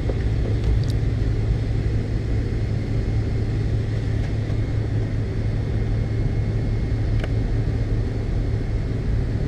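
Steady low hum in the cabin of a McDonnell Douglas MD-82 airliner, with a couple of faint ticks about a second in and about seven seconds in.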